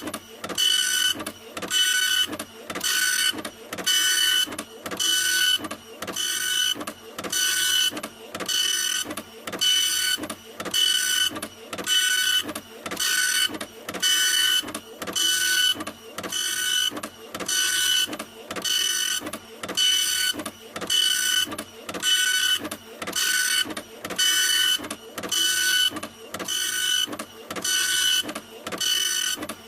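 Printer running continuously, its mechanism working back and forth in a fast, even rhythm of repeated strokes, each with a whirring whine.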